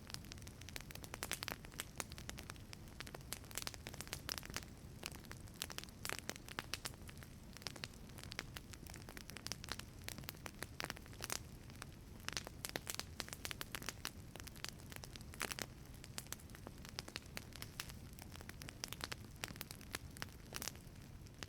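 Wood fire burning in a wood-fired pizza oven, crackling with frequent sharp pops and snaps over a steady low rumble of the flames.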